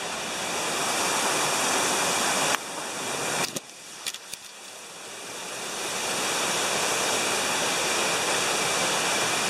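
Rushing water of a waterfall, an even hiss. It drops away abruptly about two and a half seconds in, stays quieter for a couple of seconds with a few faint clicks, then swells back up.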